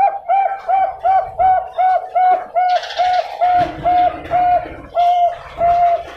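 Zebra dove (Bangkok-type perkutut) cooing: a fast, even run of about fifteen short, clear coo notes, between two and three a second, sinking slightly in pitch toward the end.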